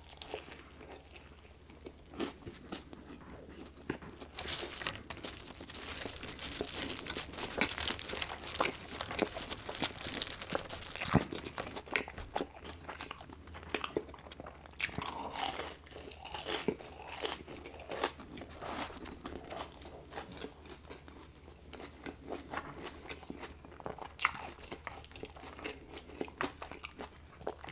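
Close-miked biting, crunching and chewing of a crispy fried chicken sandwich and french fries: wet mouth sounds with dense crackles from the breading, busiest in the middle.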